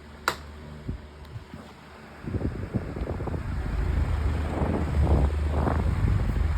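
Climate Keeper 12-inch oscillating table fan running on high speed, with a sharp click near the start; from about two seconds in its airflow buffets the microphone in a loud, uneven rumble.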